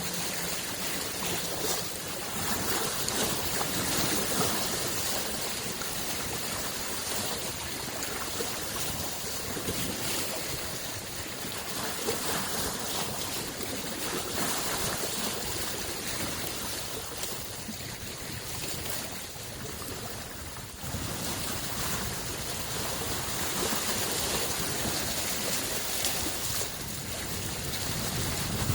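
Small lake waves lapping on the shore: a steady wash of water that gently swells and eases.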